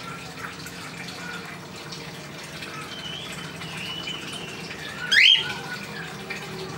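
Cockatiel giving one loud, short call that slides sharply upward in pitch about five seconds in, with fainter wavering whistles before it, over a steady hiss.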